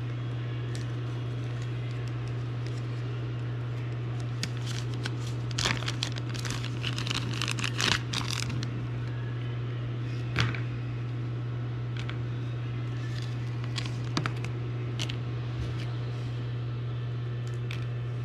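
Crinkling and clicking from things being handled, strongest between about four and eight seconds in, with one sharp knock about ten seconds in, over a steady low hum.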